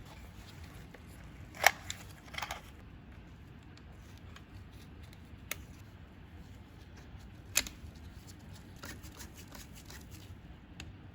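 Hard objects being handled: a few sharp clicks and knocks, two of them louder, and a quick run of small clicks near the end, over a low steady hum.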